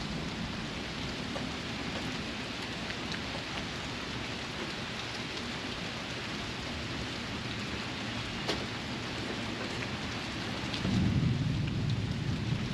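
Steady heavy rain falling, with scattered drop ticks. A low rumble of thunder swells in near the end.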